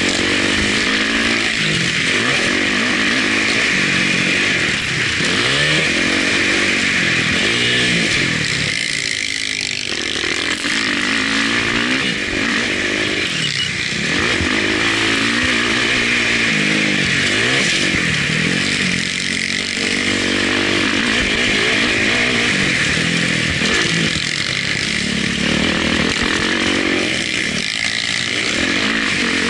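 Motocross bike engine heard from the rider's onboard camera, revving hard and rising and falling in pitch as it shifts through the gears, with the throttle shut off briefly every few seconds for corners.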